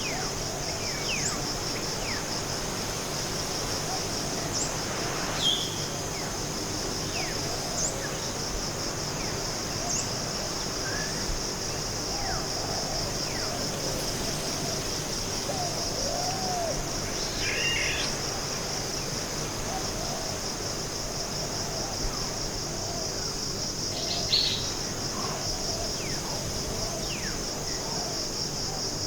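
Forest ambience: a steady, high-pitched insect chorus with short bird chirps and calls scattered through it, the loudest about five seconds in and again near the end.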